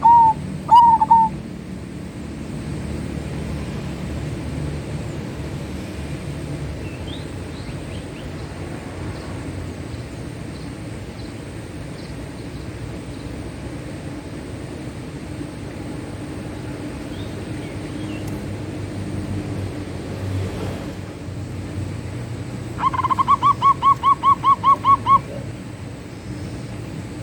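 Zebra dove cooing. The last few notes of one phrase fall in the first second or so. After a long pause over a low background rumble, a quick run of about a dozen staccato coos comes near the end, at about five notes a second.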